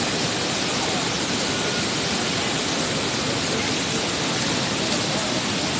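Steady rushing of a river in flood, swollen by heavy rain: one even, unbroken wash of fast water.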